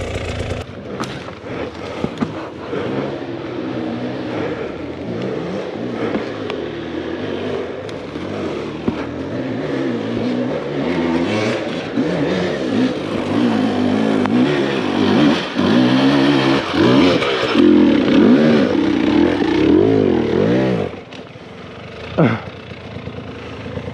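Enduro dirt bike engine revving hard and unevenly on a steep forest climb, its pitch repeatedly rising and falling as the throttle is worked, loudest in the second half, then dropping back to a lower running note about three seconds before the end.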